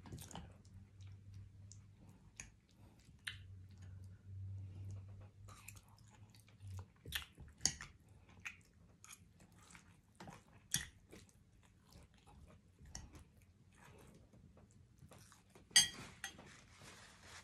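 Close-up sounds of a person chewing and biting a mouthful of neck-bone meat and sautéed Brussels sprouts, wet and smacking, with short sharp clinks of a metal fork against a ceramic bowl. The loudest clink comes near the end.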